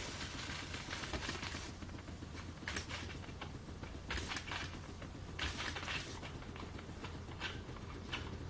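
An electric steam cleaner running with a low steady hum while steam spits and hisses in short, irregular bursts through its feed line.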